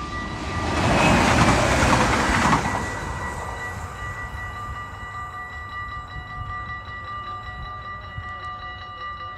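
An electric passenger train rushes past the level crossing for about two seconds and then fades away. Under it and after it, the crossing's electronic warning bell keeps ringing steadily.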